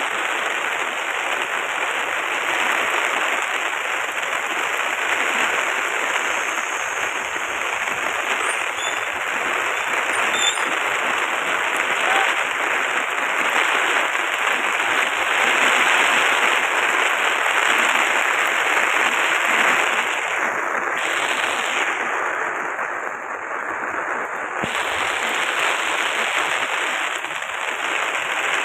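Floodwater rushing over a bridge deck: a loud, steady rush of water.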